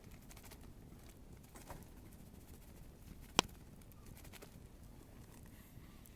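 Wood bonfire burning with faint scattered crackles, and one sharp pop from the burning wood about three and a half seconds in.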